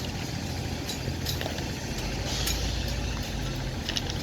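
Heavy diesel engine of earthmoving machinery running steadily with a low rumble, with a few short metallic clinks, a couple about a second in and another near the end.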